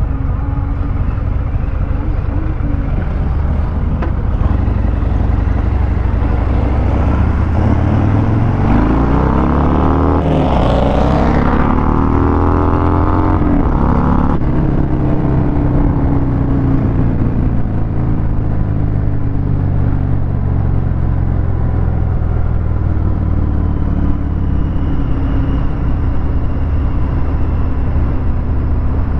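Harley-Davidson Fat Bob 114's Milwaukee-Eight V-twin running through a Vance & Hines Hi-Output 2-into-1 exhaust while riding in traffic. About eight seconds in it accelerates with a rising pitch, then eases off about fourteen seconds in and goes back to a steady rumble.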